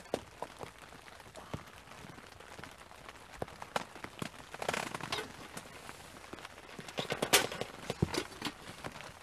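Irregular light taps and knocks, with brief rustles about halfway through and again about three-quarters through: rain dripping onto a fishing umbrella's canvas while gear is handled underneath it.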